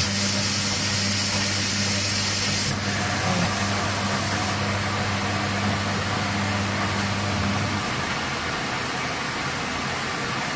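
Washing machine starting its cycle: a steady low hum with a rushing hiss of water. The higher hiss drops away about three seconds in and the hum cuts out about eight seconds in, leaving a softer steady noise.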